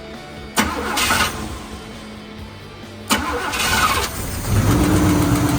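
Engine cranked by its starter in two short bursts. It catches near the end and runs steadily.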